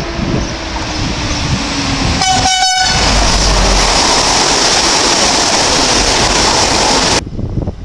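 A train nears with a low hum, sounds a brief horn toot about two seconds in, then passes close at speed with a loud steady rush of wheels and air. The rush cuts off suddenly near the end.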